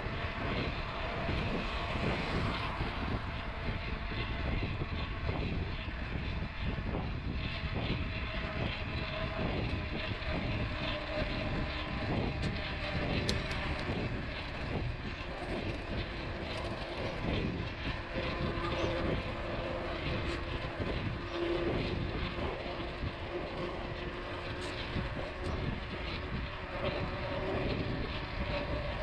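Wind rushing and buffeting over the microphone with the rolling noise of a mountain bike on a dirt trail, a steady, rumbling noise with a faint hum running through it.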